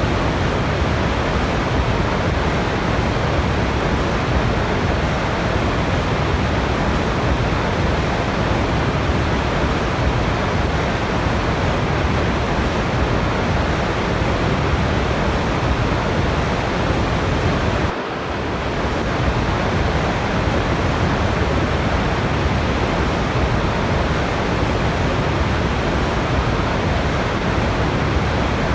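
Steady rushing of falling water, an even roar with no changes, except for a brief dip and recovery about 18 seconds in.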